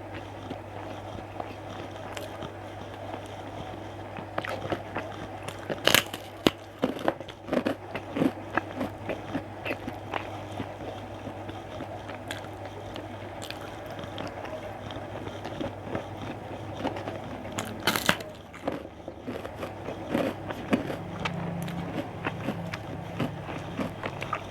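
Close-miked eating: a person biting and chewing food, with irregular crunches and sharp clicks, the loudest about six seconds in and again near eighteen seconds. A steady low hum runs underneath.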